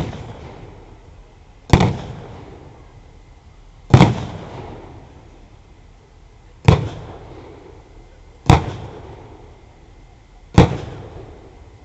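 A simulated artillery barrage in a battle re-enactment: six loud single bangs roughly two seconds apart, each followed by a rumble that dies away.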